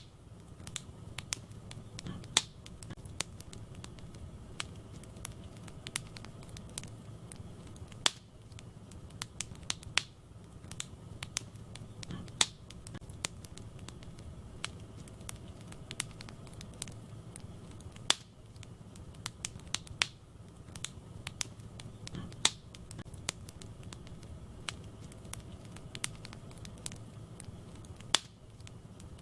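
Wood fire crackling in a fireplace: frequent irregular sharp pops and snaps from the burning logs over a soft, steady low rumble of the flames.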